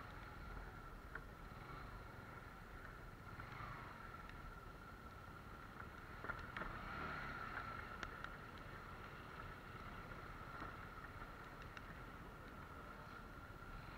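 Bajaj Pulsar 150 motorcycle riding on a wet road: a low steady rumble of engine and road noise with a constant high-pitched whine over it, and a few faint ticks around the middle.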